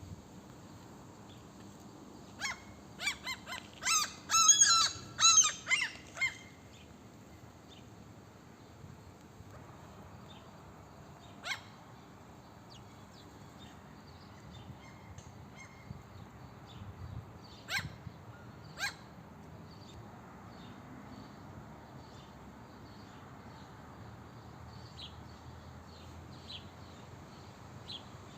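Gulls calling: a loud run of repeated calls from about two to six seconds in, then three short single calls later.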